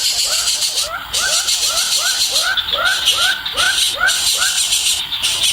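Nestling begging calls: a string of short squeaky calls, each sweeping upward in pitch, about two to three a second, over a steady high hiss.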